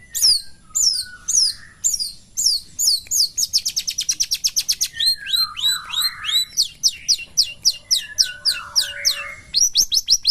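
Long-tailed shrike (cendet) singing: a run of sharp, high, downward-slurred notes that speed up into a rapid trill about three seconds in, then go on as quick notes mixed with lower, harsher sounds.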